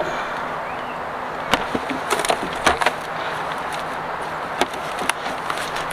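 Steady outdoor hiss, with a few sharp clicks and knocks scattered through it.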